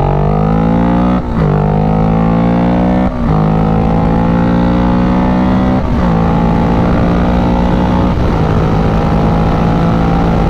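Kawasaki Ninja 650's parallel-twin engine accelerating through the gears. Its pitch climbs in each gear and drops sharply at four upshifts, with steady road and wind rumble underneath.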